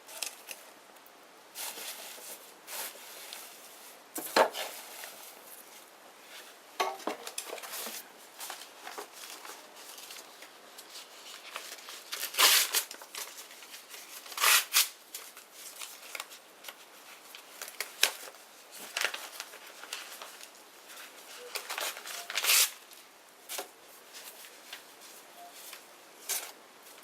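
Small wood bonfire burning and crackling, with irregular sharp pops and snaps over a faint hiss; several louder pops stand out.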